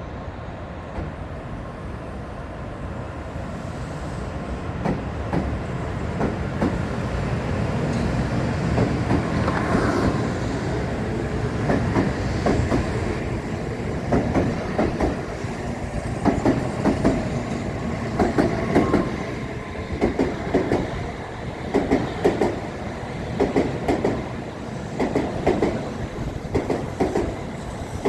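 Tokaido Shinkansen train running alongside the platform at moderate speed. A steady rumble builds up, then from about halfway the wheels clack in regular beats, roughly one a second, as the bogies pass.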